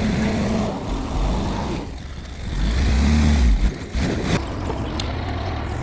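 Mitsubishi bulldozer's diesel engine working under load, rising in loudness about two and a half seconds in and easing off about a second later. A couple of sharp knocks follow near the end.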